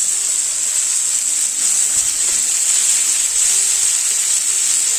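Chicken pieces sizzling in hot oil and spice paste in the cooking pot: a steady, even frying hiss.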